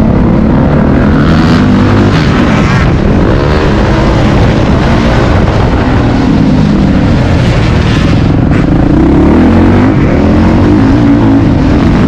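Motocross dirt bike engine ridden hard, loud throughout, its pitch dropping off and climbing back up as the throttle is rolled off and opened again, about three seconds in and again near the end.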